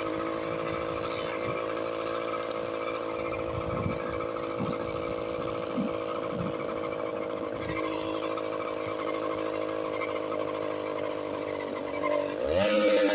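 Motorized bicycle's small engine running at a steady speed, then revving up with a rising pitch near the end.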